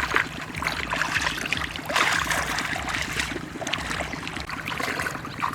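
Water sloshing and splashing in uneven surges, with a faint low steady hum underneath.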